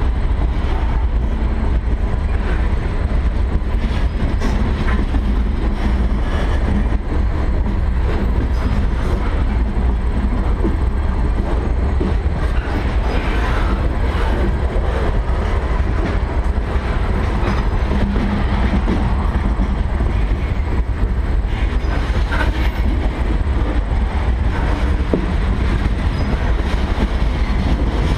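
Freight train of gondola cars rolling past close by: a steady heavy rumble of steel wheels on rail, with occasional clicks and clanks as the wheels pass over the rail joints.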